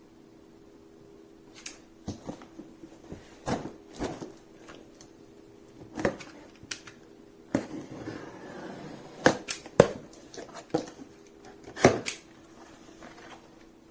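Cardboard box being opened and the packaging handled: a string of irregular knocks, taps and scrapes, with a stretch of rustling packaging in the middle.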